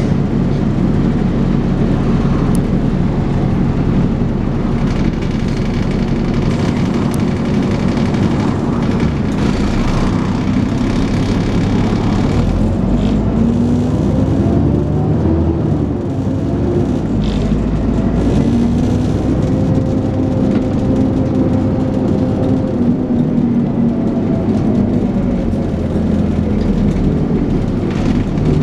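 Onboard sound of a Dennis Trident 2 double-decker's diesel engine working hard under acceleration (thrash), with a hoover-like whine. The engine note climbs in pitch twice, with a short dip about two-thirds of the way through, like a gear change. A few rattles or clicks from the bus body are heard.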